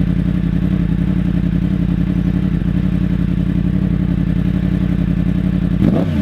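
Yamaha R1 inline-four engine idling steadily through an Akrapovic exhaust. Near the end the throttle is blipped and the pitch rises sharply.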